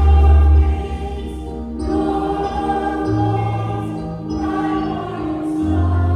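Slow worship music on a keyboard: long held chords over low bass notes that change every few seconds, with choir-like voices.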